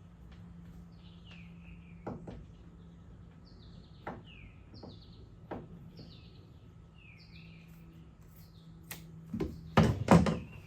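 A bird singing a series of short, falling chirps, repeated less than a second apart. Occasional light taps are heard, with a few louder knocks near the end.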